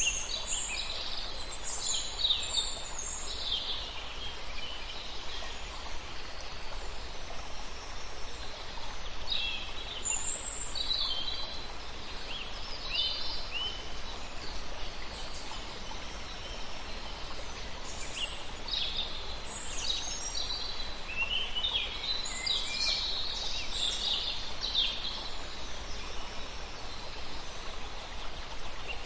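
Several small birds chirping and trilling in bursts, busiest near the start, around the middle and in the second half, over a steady background hiss.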